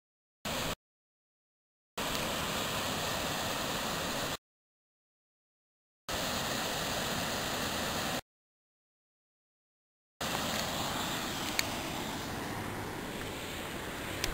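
Steady rush of a waterfall and river, heard in short stretches broken several times by dead silence where the recording cuts out. A single click sounds about eleven and a half seconds in.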